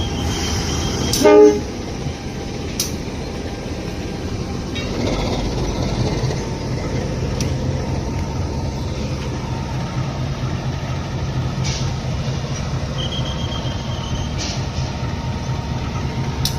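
Railway train on the track: a short horn toot about a second in, then the steady low rumble of the train running, with a few sharp metallic clanks and a high thin squeal near the end.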